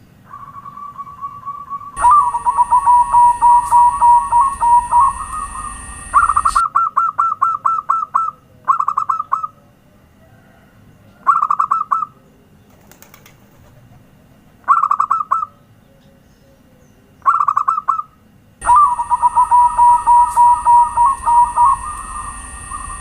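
Zebra dove (perkutut) cooing in fast staccato trilled phrases, several short bouts with gaps between. A steady high hiss and a low hum come in about two seconds in and again near the end, under the longer phrases.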